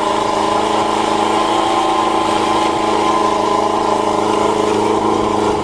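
Motorcycle engine in a home-built dune buggy idling steadily, a few minutes after its first start of the season.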